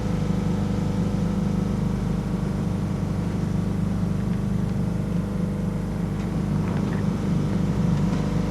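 Steady low mechanical hum of a running motor, even and unchanging.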